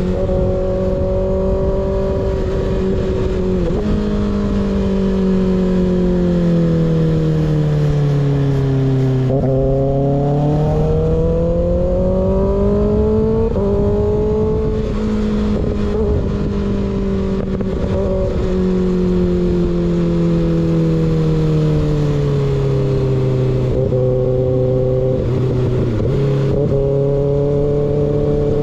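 Kawasaki ZX6R inline-four through an unbaffled M4 GP19 slip-on exhaust, running steadily on the road over wind noise. The pitch eases down over the first several seconds to a low about a third of the way in, climbs back, and later dips and rises again as the throttle changes.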